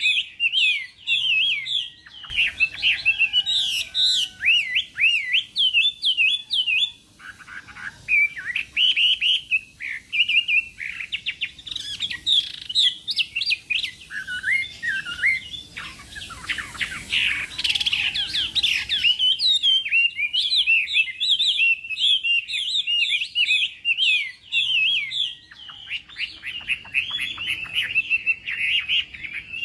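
Chinese hwamei singing a long, rapid song of varied whistled phrases, notes sliding up and down in quick succession with only a brief pause about seven seconds in.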